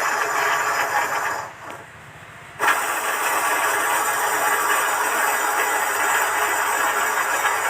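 Toyota Innova wheel hub being turned with the wheel and brake caliper off, its worn wheel bearing giving a rough grinding noise. The noise eases off briefly about a second and a half in, then comes back steady and stops abruptly. This is the bearing wear behind the humming noise heard when the car is driven.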